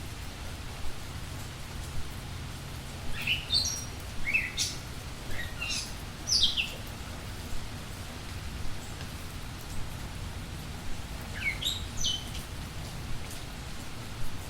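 Budgerigars chirping: short, sharp calls that come in a cluster a few seconds in and again near the end, over a steady low hum.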